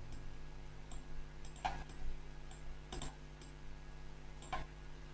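Computer mouse clicking three times, about a second and a half apart, over a faint steady electrical hum.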